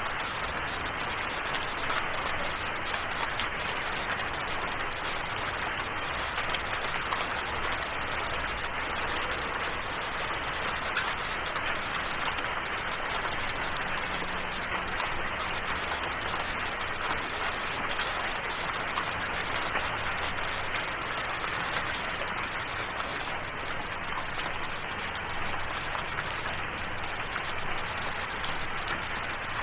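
Steady rain falling: an even, continuous hiss of rainfall with fine scattered drop patter, unchanging throughout.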